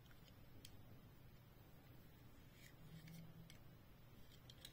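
Near silence: faint room hum with a few soft, scattered clicks from a small die-cast toy car being handled.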